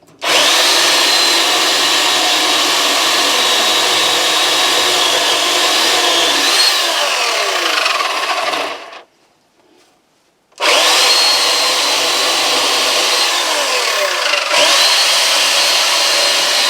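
A chainsaw cutting small firewood: it starts abruptly, runs with a high steady whine that dips briefly as the chain bites into the wood, stops for about a second and a half, then starts again for a second cut.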